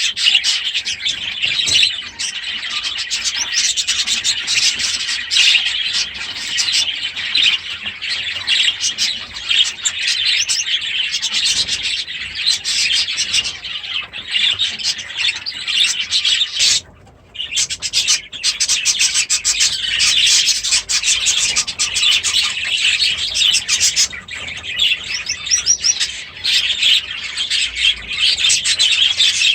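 A flock of caged budgies and Gouldian finches chattering and chirping without a break, with a short lull about seventeen seconds in.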